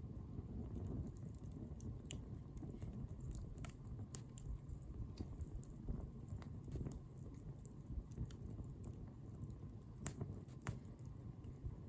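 Wood bonfire burning: a steady low rustle of flames with scattered crackles and sharp pops, the loudest two about ten seconds in.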